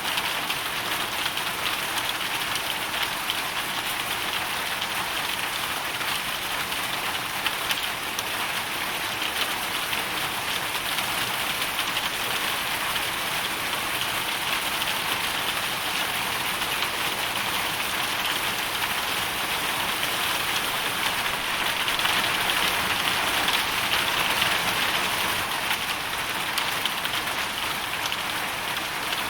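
Hailstorm: a dense, steady patter of countless small hailstones hitting the ground and surfaces, swelling a little about three-quarters of the way through.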